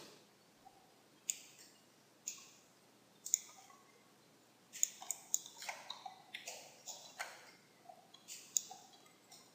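Clicks from a computer mouse and keyboard: a few single clicks about a second apart, then quicker runs of clicks from about five seconds in.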